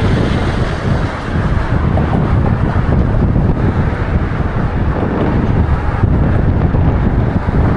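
Strong gale-force wind buffeting the microphone: a loud, continuous low rumble that flutters with the gusts, over a faint hiss.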